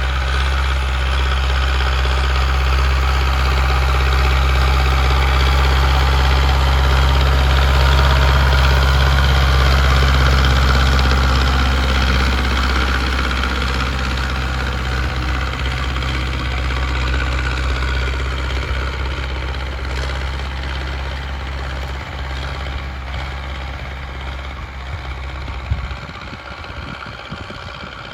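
Zetor 7745 tractor's four-cylinder diesel engine running under load while pulling a reversible plough, loudest about a third of the way in and then growing steadily fainter. A single short knock is heard near the end.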